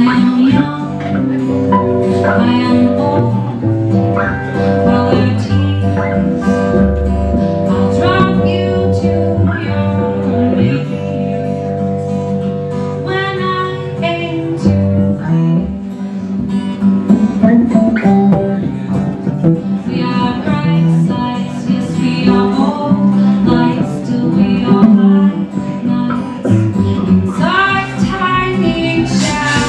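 Live acoustic guitar music, picked and strummed, with sustained low bass notes under it.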